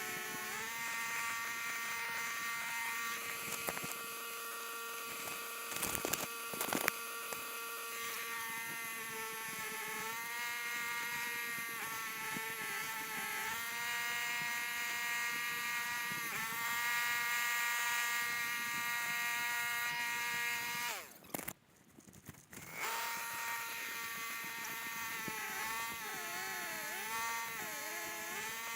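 A small motor running with a steady high whine, its pitch dipping briefly several times as if under load, with a few sharp clicks about six seconds in. The sound cuts out for about two seconds near the end, then the motor carries on.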